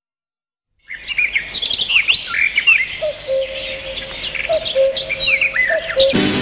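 Birds chirping and singing, starting about a second in, with quick varied chirps and a lower held whistle that repeats several times. Acoustic guitar music comes in right at the end.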